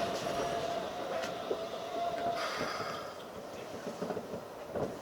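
Keikyu 1500 series field-chopper-controlled electric train running, wheels rumbling on the rails, with a steady whine that stops about halfway through; the running noise is quieter afterwards.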